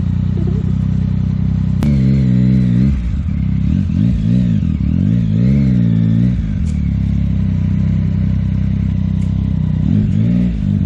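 Motorcycle engine running under way, its pitch rising and falling several times as the throttle is opened and closed, with the strongest revs about two seconds in and again between four and six seconds.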